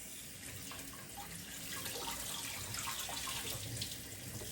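Kitchen tap running steadily into the sink, rinsing just-parboiled chicken wings clean.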